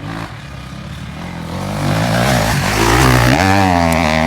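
Enduro dirt bike engine getting louder over the first two seconds as it nears, then jumping to a higher steady revving note about three seconds in.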